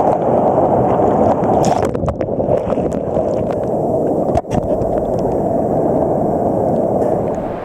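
Loud, muffled rushing of sea water and wind on the microphone, with a brief break about four and a half seconds in.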